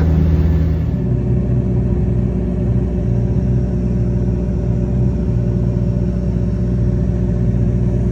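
Ferrari twin-turbo V8 idling steadily while stationary, heard through a car's cabin.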